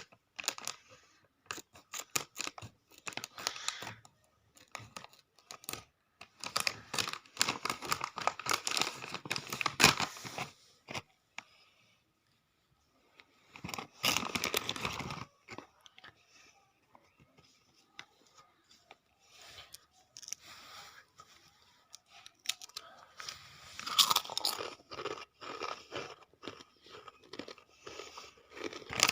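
Lay's potato chips being bitten and chewed, crisp crunching in bouts of a few seconds with short pauses between.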